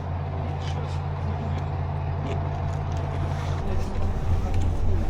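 A road vehicle's engine running with a steady low drone. Its note shifts and the rumble grows heavier about three and a half seconds in.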